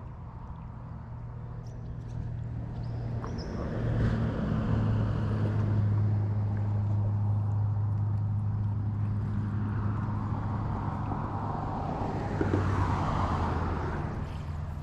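An engine running with a steady low hum that grows louder about four seconds in and shifts in pitch a couple of times.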